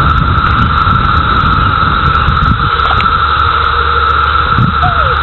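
Dense chorus of cicadas: a loud, unbroken high-pitched drone, with a low rumble underneath.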